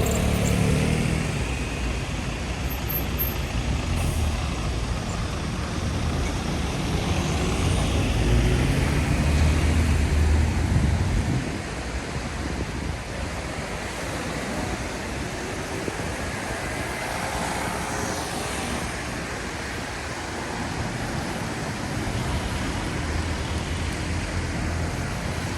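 Street traffic: the engine of a heavy vehicle such as a bus or truck rumbles low for about the first eleven seconds, then drops away, leaving a steady hiss of passing traffic.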